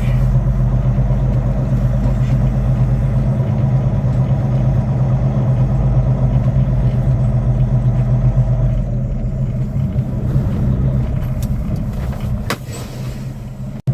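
Semi-truck's diesel engine running at low speed, a steady low drone heard inside the cab. A single sharp click sounds near the end, as the engine note eases off.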